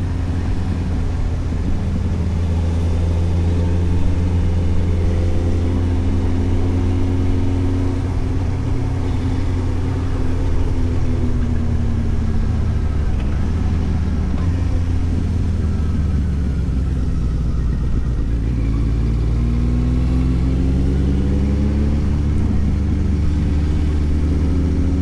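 Suzuki GSX-S750's inline-four engine pulling the bike along over a steady low rumble. Its pitch sinks through the middle as the throttle eases, then climbs again in the last few seconds under acceleration.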